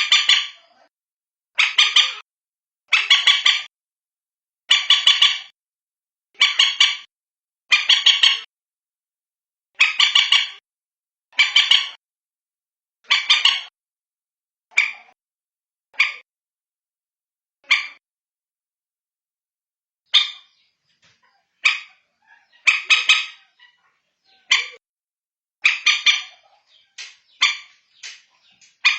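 Common moorhen calling: a series of loud, harsh calls of about half a second each, repeated roughly once a second or a little slower. After a pause of about two seconds late on, shorter calls come more quickly.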